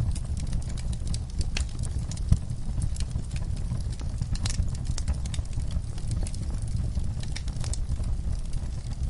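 Wood fire burning in a fireplace: a low steady rumble of flames with irregular sharp crackles and pops, one louder pop a little over two seconds in.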